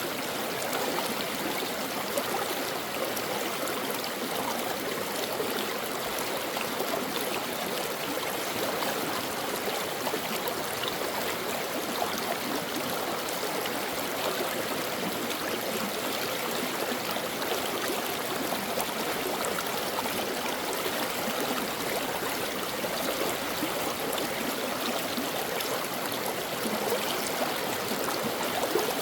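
Mountain stream water flowing over rocks, a steady burbling rush with fine splashing texture.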